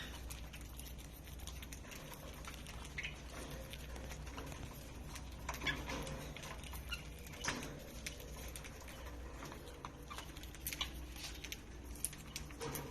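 Lovebirds moving about with scattered clicks and scratching, and a few short high chirps, over a low steady hum.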